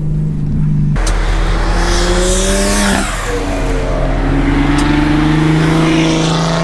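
Turbocharged inline-six engine going to full throttle about a second in, its pitch rising through one gear, dropping at an upshift about three seconds in, then climbing again through the next gear.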